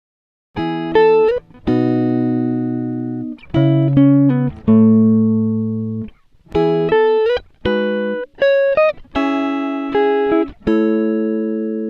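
Background music: a melody of plucked guitar notes, each ringing and fading, starting about half a second in.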